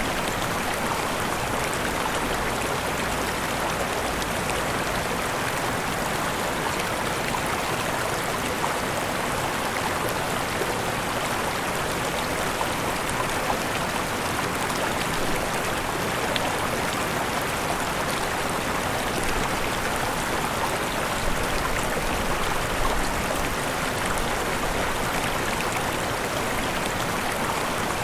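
Waterfall and stream water rushing and splashing steadily.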